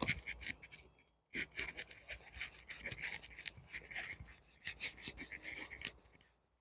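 Faux-leather vinyl seat cover being rubbed and worked over seat foam: rapid scraping strokes, with a short pause about a second in.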